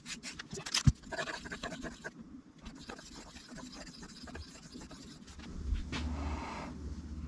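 A knife being handled at a sharpening stone: several sharp clicks and knocks in the first second, light scraping after them, and a louder rustling scrape with a low rumble a little before the end.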